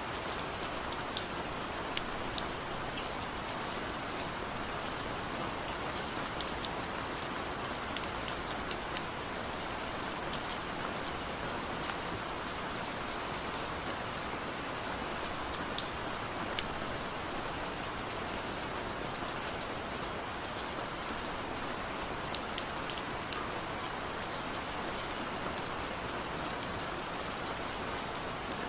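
Steady rain falling, an even hiss with many distinct drops ticking sharply on hard surfaces.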